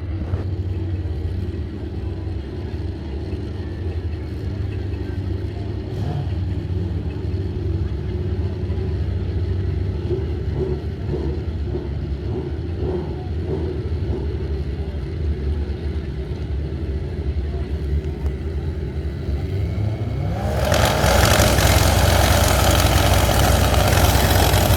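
Pro Street drag motorcycles idling and blipping with a steady low rumble while they stage. About four-fifths of the way through they launch, and the sound jumps to a loud full-throttle run.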